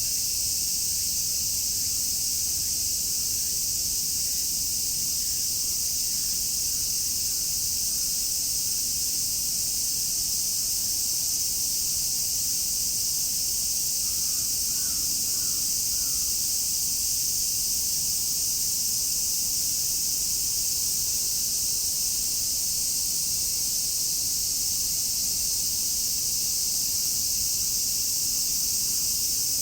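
A chorus of cicadas shrilling together in a dense, steady, high-pitched drone that never lets up.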